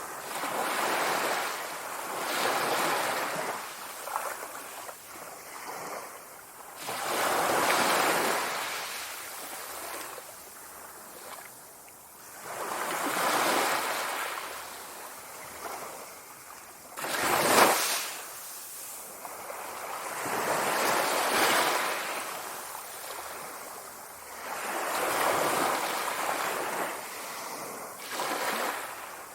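Sea waves breaking on the shore, each one swelling and fading in a slow rhythm of roughly one every four seconds, with one sharper, louder crash about two-thirds of the way through.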